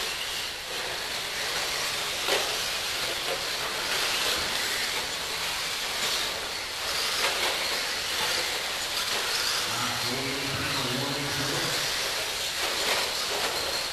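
Electric RC stadium trucks racing on the track, giving a steady hiss of motors and tyres with a few sharp knocks from jumps or hits. A voice comes in briefly about ten seconds in.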